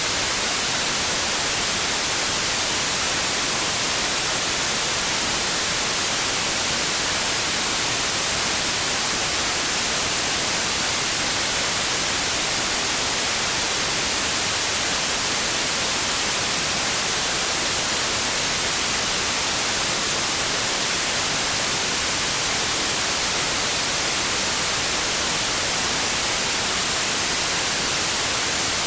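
Steady white noise: an even, unchanging hiss, strongest in the high frequencies, with no breaks or changes.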